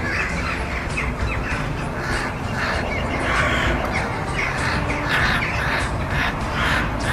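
Crows cawing over and over, many calls overlapping in a continuous chorus.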